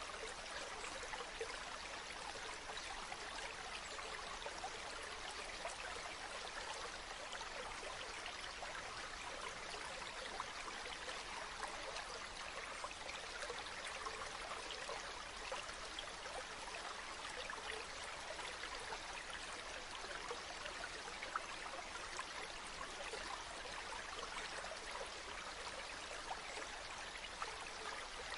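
Running water, a small spring-fed stream trickling and splashing steadily, with many small droplet splashes and no change in flow.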